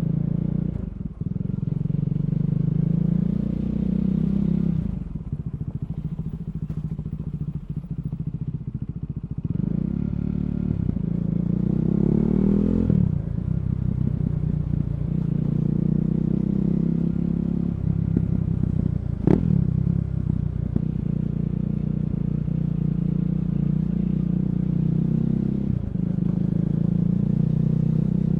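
KTM Duke 390's single-cylinder engine through an Akrapovic slip-on exhaust with the catalytic converter removed, heard while riding: mostly steady running, with short dips in sound at gear changes. A quieter crackly stretch off the throttle comes a few seconds in, then the revs rise before a shift, and there is one sharp crack past the middle.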